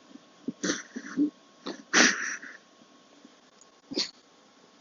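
A person's stifled, silent laughter: short breathy gasps and wheezes in uneven bursts, the loudest about two seconds in.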